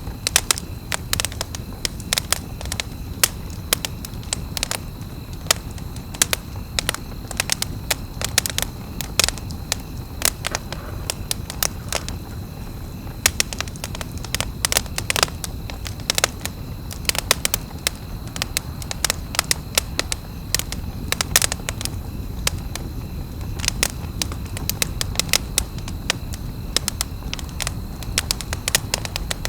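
Wood campfire burning, with a steady low rumble of flames and many sharp, irregular crackles and pops.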